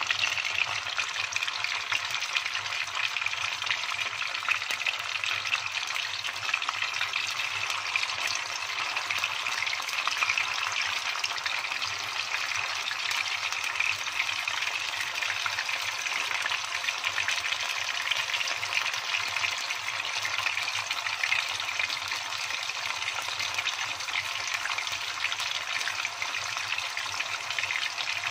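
Cubes of raw tofu frying in hot cooking oil in a pan: a steady sizzle thick with fine crackles.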